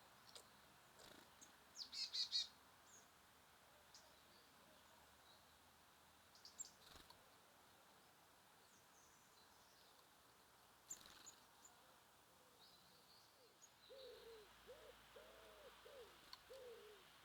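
Faint calls of small songbirds at a feeder: a quick high trill about two seconds in, then scattered short chirps. A series of low, arching hooting notes follows from about fourteen seconds on.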